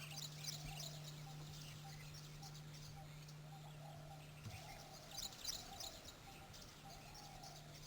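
Faint wild bird chirps and calls over quiet natural ambience, with a few short high chirps near the start and again about five seconds in, and a steady low hum underneath.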